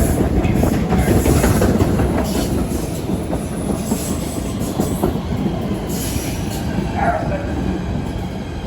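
A train running past on the rails close by: a steady rolling rumble with wheel clatter and brief high wheel squeals.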